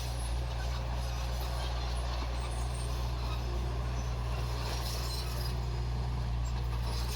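Heavy construction machine's diesel engine running steadily, a deep, even hum with no change in load.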